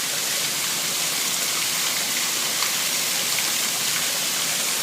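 Heavy rain pouring down, a steady hiss with a few faint drop ticks.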